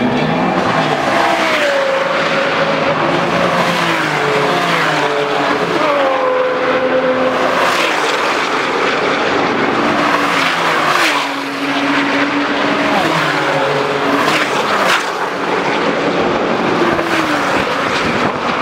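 Several high-performance sports car engines at full throttle on a race track, pitch climbing through each gear and dropping sharply at the upshifts, with the cars overlapping and passing.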